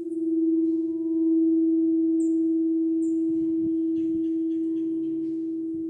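Crystal singing bowl ringing one steady, sustained tone with faint higher overtones. It swells louder about a second in and then slowly fades.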